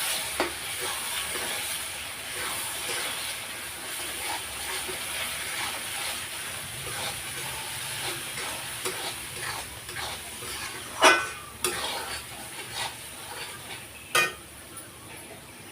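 Spiced masala with a little water added sizzling in a kadhai while it is stirred, the utensil scraping against the pan. A few sharp louder knocks on the pan in the second half.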